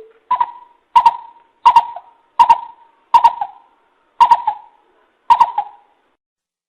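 A coucal calling: a series of seven short hoots at a steady pitch, spaced a little under a second apart.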